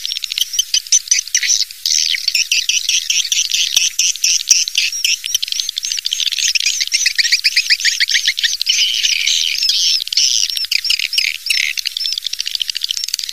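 Swiftlet calls: a crowd of edible-nest swiftlets twittering in a continuous mass of quick, high chirps and trills. It is a lure-call recording of the kind played to draw swiftlets into a nesting house.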